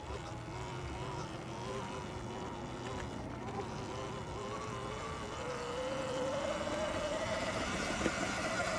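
Sur-Ron X electric dirt bike's motor whining as it rides, the pitch climbing over the second half as the bike speeds up, over a low rumble of wind and tyres.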